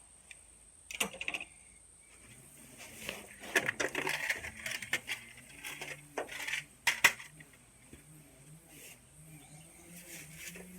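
Metal parts and hand tools clinking and clattering in a cluster of sharp knocks, briefly about a second in and then densely for several seconds, with a faint low wavering hum underneath.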